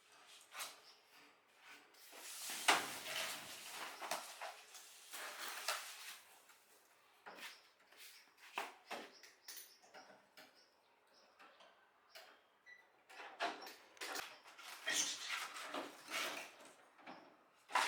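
Irregular clicks, knocks and scraping of parts and tools being handled during a fan repair, with short pauses between them.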